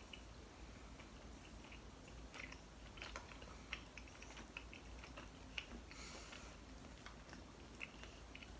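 Faint mouth sounds of people chewing soft Royce' nama chocolate: scattered small wet clicks and smacks.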